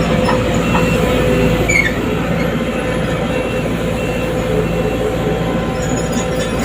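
Excavator engine running steadily in a continuous heavy mechanical din, with a short high squeal about two seconds in.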